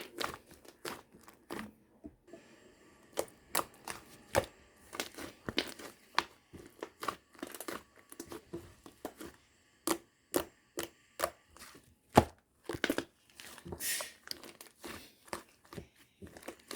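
Food preparation handling sounds: irregular sharp taps and clicks. The loudest comes about twelve seconds in.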